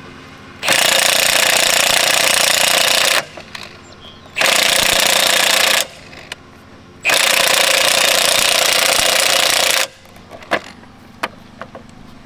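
Pneumatic air tool running in three long bursts of a few seconds each, starting and stopping sharply, with light clicks and taps in the pauses between.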